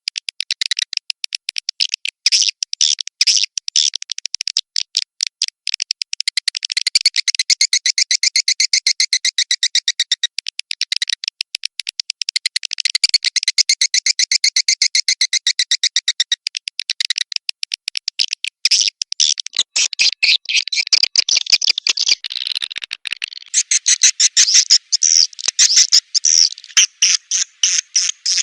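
Edible-nest swiftlet calls: a dense, fast stream of high, rapid chirps, repeated without break, a lure recording played to draw swiftlets into a swiftlet house.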